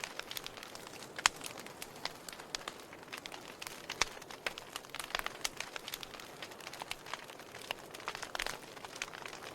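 Wood fire burning, with irregular sharp crackles and pops over a soft steady hiss; the loudest pops come about a second in and again about four seconds in.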